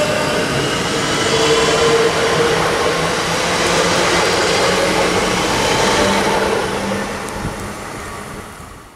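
SNCB AM08 Desiro electric multiple unit passing close by at speed: a steady rush of wheels on rail with a low hum beneath. It dies away over the last three seconds as the train moves off.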